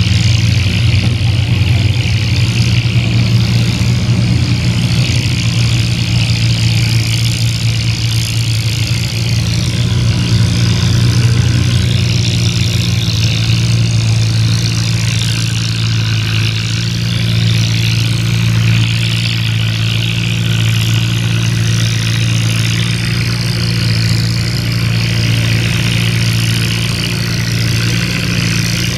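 Antique farm tractor engine running steadily and loudly, its low hum holding an even pitch throughout.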